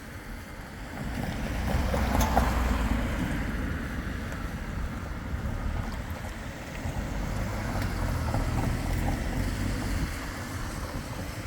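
Tram running past with a low rumble that swells in loudness twice, with wind noise on the microphone.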